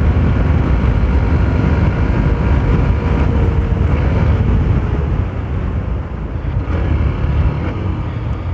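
Hero Xtreme 125R's 125cc single-cylinder engine and exhaust running under way in power mode, heard from the moving motorcycle; it gets somewhat quieter about halfway through.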